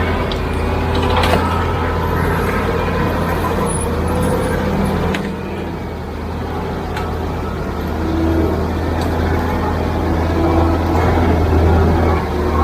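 Heavy diesel construction machinery running steadily with a low engine drone, and a few sharp metallic knocks along the way.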